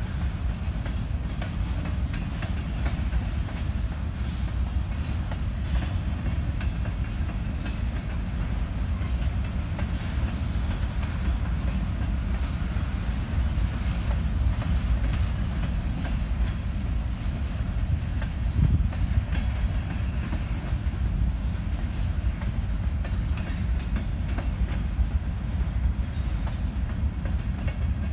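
Empty covered hopper cars of a grain train rolling past: a steady low rumble of steel wheels on the rails, with scattered clicks and clanks from the wheels and cars.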